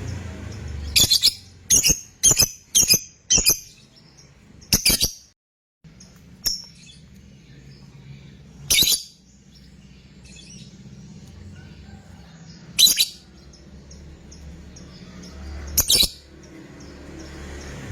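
Lovebird giving short, shrill shrieks: a quick run of about six near the start, then single shrieks every few seconds. A low steady hum lies underneath.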